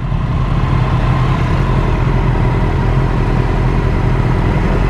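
Motorcycle engine running steadily at low revs, with no rise or fall in pitch.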